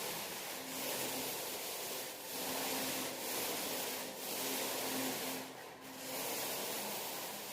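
Paint roller worked up and down a wall: a steady rasping hiss with short breaks every second or so as each stroke turns.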